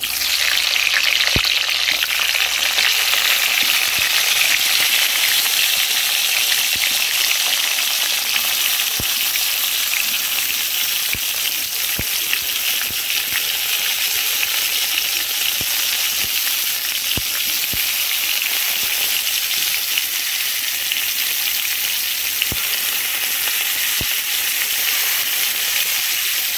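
Brinjal pieces frying in hot oil in a kadai: a steady sizzle, a little louder in the first few seconds as the pieces go into the oil, with a few soft knocks.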